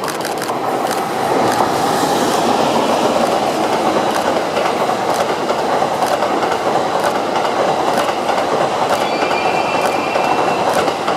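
Passenger coaches of a locomotive-hauled train rolling past, wheels clicking over rail joints about once a second. A faint wheel squeal comes in near the end.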